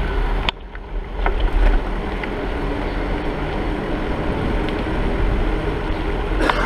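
Wind buffeting the microphone of a camera riding along on a moving bicycle, a steady low rush, with a few sharp clicks.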